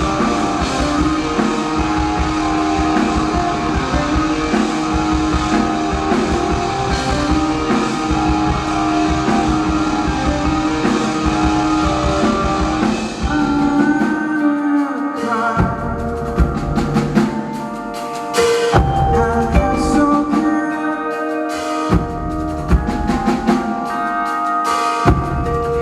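Rock band playing live: guitars, bass and drum kit in a dense full passage. About halfway through it thins out to held guitar notes punctuated by spaced, hard drum hits.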